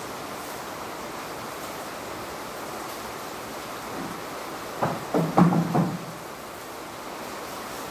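Heavy rain falling steadily, an even hiss. About five seconds in, a brief pitched sound in several short pulses rises above the rain for about a second.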